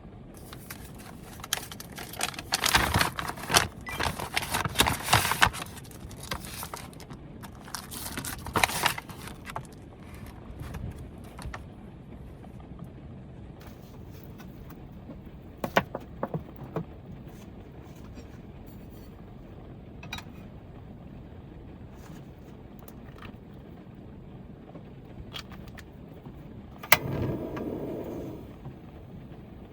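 Rustling and clinking of packaging and utensils being handled while preparing food, busiest in the first nine seconds, then scattered clicks. A sharp click comes near the end, followed by a short louder patch, all over a steady hiss.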